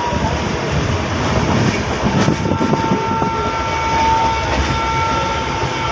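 Passenger train running at speed, heard from inside a coach: a steady rumble of wheels on rail, joined about two seconds in by a thin, steady high-pitched tone.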